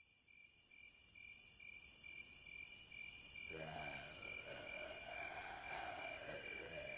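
Faint crickets chirping in a steady, pulsing trill, a night-time ambience. About halfway through, a soft wavering drone comes in beneath them.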